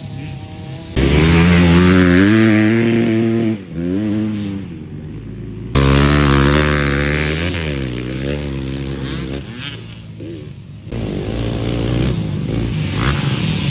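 Yamaha motocross bike engine revving hard, its pitch rising and falling as the throttle opens and closes. It jumps suddenly louder about a second in and again about halfway, then falls back each time.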